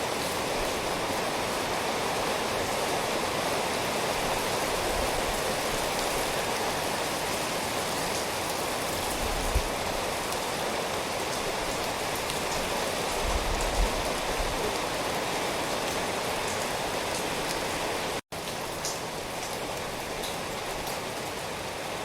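Steady rain falling, an even hiss with no pauses in the patter, and a couple of faint low thuds about ten and fourteen seconds in. The sound cuts out for an instant about eighteen seconds in, then carries on.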